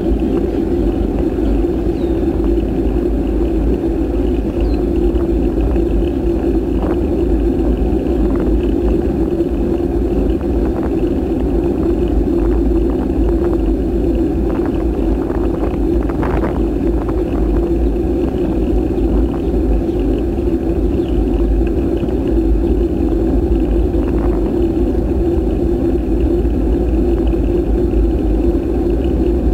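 Steady wind rush and rumble on the camera's microphone while riding a bike, with a few faint knocks, the clearest about sixteen seconds in.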